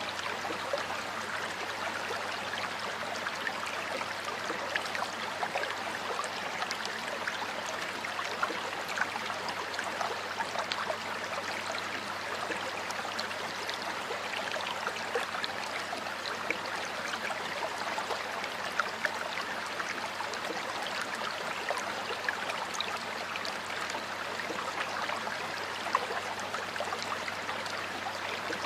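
Shallow stream flowing steadily over stones, with frequent small splashes and bubbling.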